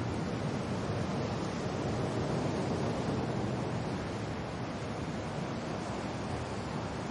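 Steady wind and rain noise, an even rushing hiss with a deep low rumble and no separate drops or gusts standing out.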